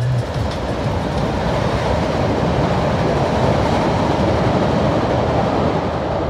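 Passenger train passing: a steady loud rumble and rush of wheels on the rails.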